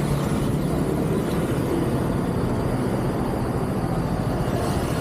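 Steady rumble of vehicle engine and road noise, with no sudden impacts.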